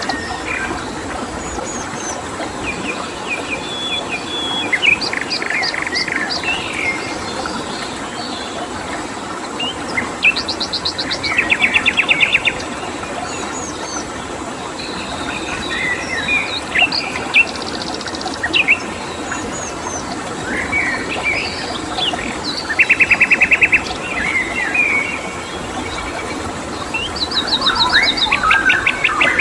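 Several songbirds chirping and whistling, with a few fast rattling trills about a second long, over a steady background hiss.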